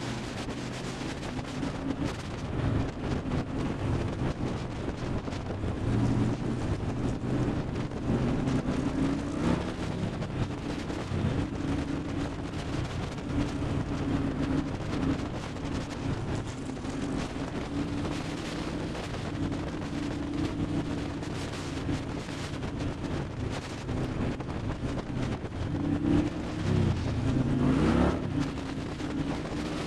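2002 Kawasaki Mean Streak's V-twin engine running under way, with wind buffeting the microphone. The engine pitch wanders up and down and climbs sharply twice, about nine seconds in and again near the end, as the bike accelerates.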